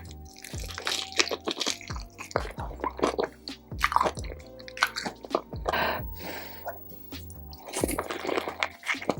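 Close-miked eating sounds: crunching bites, chewing and wet, saucy squishing and dripping, in quick irregular strokes over steady background music.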